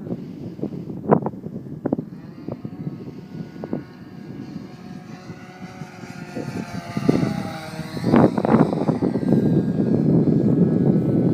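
Glow-fuel engine of a radio-controlled P-51 Mustang model flying past, its pitch drifting up and down as it moves; it grows louder from about eight seconds in. Wind rumbles and buffets the microphone.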